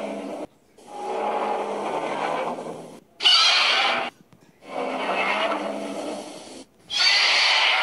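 Godzilla roar sound effects, four in a row with sudden starts and stops: two longer, lower roars, each followed by a shorter, shriller one.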